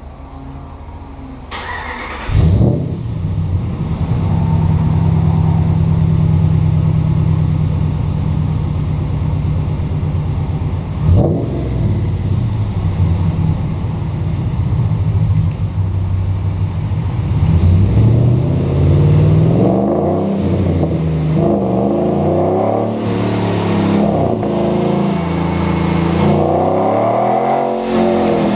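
Supercharged Dodge Ram 1500 V8 with headers and a valved sport exhaust, started up about two seconds in with a loud flare. It settles into a steady, deep idle with one quick blip of the throttle, then is revved up and down repeatedly in the last third.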